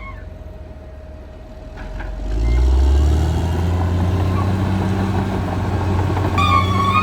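Caterpillar D6R XL bulldozer's diesel engine, quiet at first, then swelling up about two and a half seconds in and running steadily. Music with a bowed string melody comes back in near the end.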